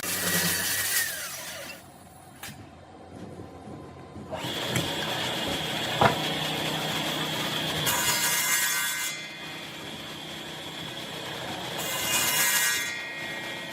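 Woodworking power tool working on wood: a steady motor whine with stretches of louder cutting noise. It drops off about two seconds in, picks up again near four seconds, and there is one sharp knock about six seconds in.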